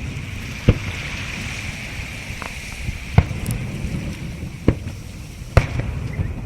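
Fireworks bursting: several sharp bangs at irregular intervals over a low, steady rumble.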